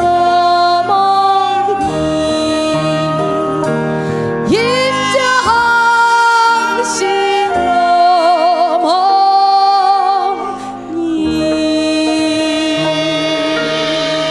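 Korean traditional gugak ensemble (haegeum, gayageum, geomungo, daegeum, piri, percussion and piano) playing a slow Catholic sacred song, with a female voice singing over it. Long held notes, several of them wavering with vibrato in the middle; the music thins briefly a little before the end, then a long note is held.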